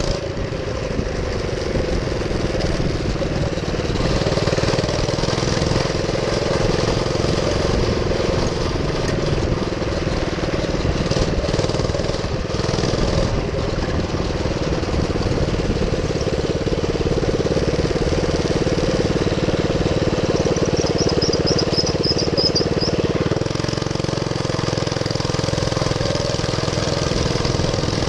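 Minibike's single-cylinder GX200-type four-stroke engine running at a fairly steady speed, its note holding nearly level with only slight wavering over a rough low rumble.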